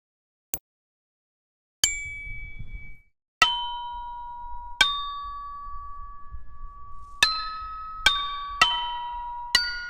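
A bell-like percussion sample played one note at a time at different pitches across a keyboard, each note struck sharply and ringing out with a metallic, glockenspiel-like tone. After two faint clicks, the notes come slowly at first, then faster in the second half.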